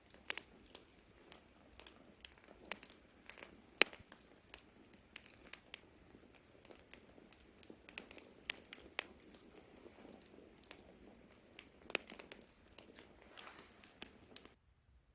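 Wood campfire crackling, with frequent irregular sharp pops and snaps over a low, steady crackle. It cuts off suddenly near the end.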